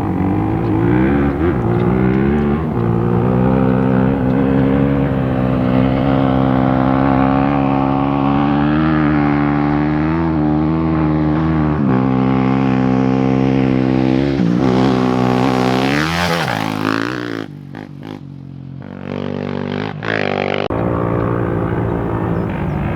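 Engine running at a steady, slightly wavering pitch. It revs up sharply about fifteen seconds in, drops away for a few seconds, then comes back steady.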